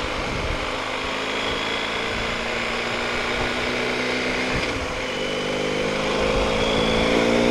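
BMW R 1250 GS Adventure's boxer-twin engine running under way, with wind noise. About halfway through, its pitch starts climbing steadily as the bike accelerates.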